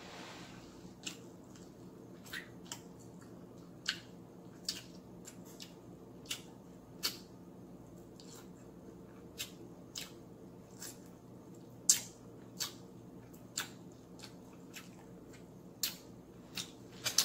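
Close-miked eating of fried chicken by hand: scattered sharp clicks and wet crackles from biting and chewing, the loudest about twelve seconds in, over a faint steady low hum.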